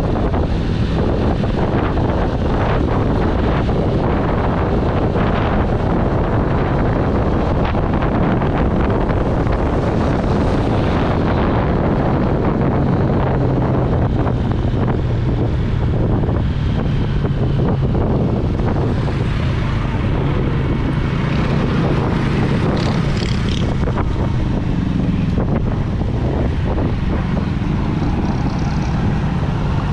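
Yamaha YBR125G single-cylinder four-stroke engine running steadily while the motorcycle rides along a road, with heavy wind buffeting on the microphone.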